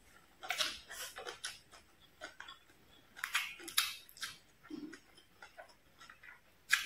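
A person chewing a mouthful of stir-fried fish and rice, heard close up. The sound comes as clusters of sharp clicking mouth noises: about a second in, again around three to four seconds in, and once more near the end.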